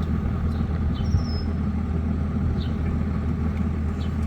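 Farm tractor's diesel engine running steadily at a low, even pitch, ready to head out for hay cutting.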